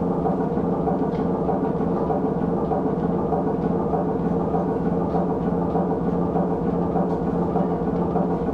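A loud, steady drone of layered low tones with a faint, regular pulse, like a dark ambient soundscape.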